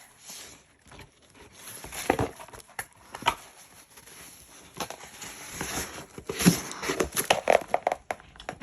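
A dog ripping and rustling at a taped cardboard package with its teeth and paws: irregular crinkling and tearing with scattered sharp snaps.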